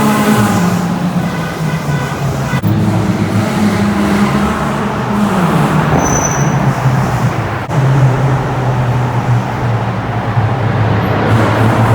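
Car engine and road noise while driving, the engine note stepping up and down, with two sharp clicks.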